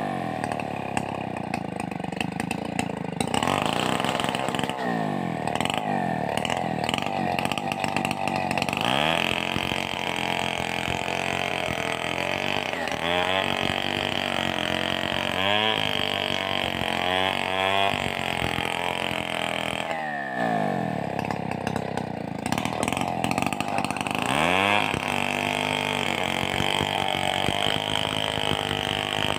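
Stihl 038 two-stroke chainsaw running at high revs while cutting through a coconut trunk. Its engine note drops and climbs back up several times as the chain is eased off and pushed back into the wood.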